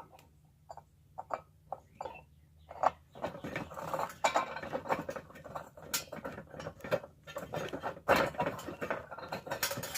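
A long bolt being worked down through the small centre hole of a metal bird feeder, metal on metal. Scattered light clicks for the first few seconds, then denser rattling and scraping from about three seconds in.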